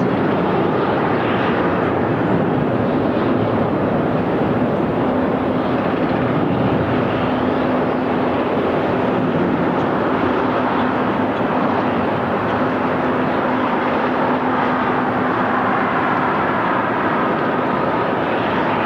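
Jet airliner engines running, a steady, even engine noise with a constant low hum underneath.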